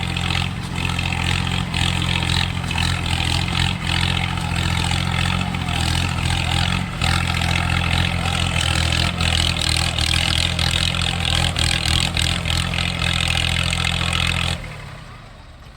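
Tractor diesel engines running hard under full load as two tractors pull against each other in a tug-of-war. The sound drops away sharply near the end.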